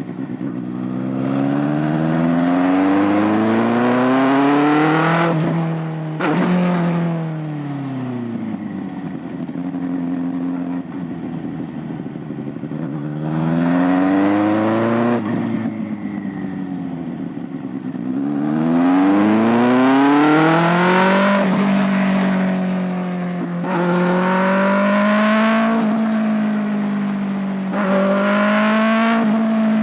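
Kawasaki ZX-6R 636's inline-four engine and exhaust accelerating hard through the gears several times. The pitch climbs, dips at each upshift and falls away as the bike slows. For the last third it holds a fairly steady pitch, with a few more shifts.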